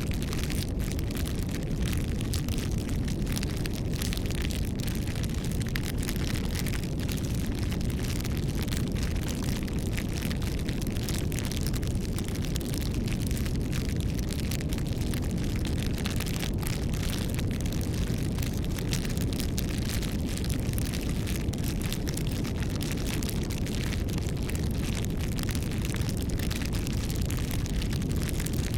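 Wood bonfire crackling, with frequent small pops and snaps over a steady low rumble of the flames.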